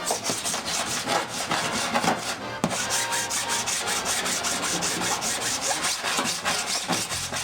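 A hand body file rasping back and forth over a repaired aluminium body panel, in quick even strokes of about five a second, dressing the surface after the dent repair.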